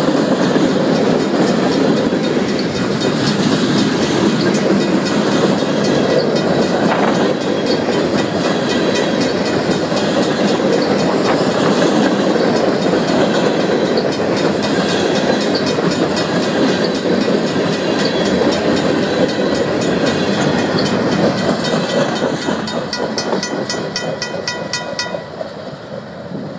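Union Pacific local freight train's boxcars and covered hoppers rolling past close by, steel wheels running over the rail joints. The sound fades near the end as the last car moves away. Behind it, the grade crossing's RACO mechanical bell rings steadily.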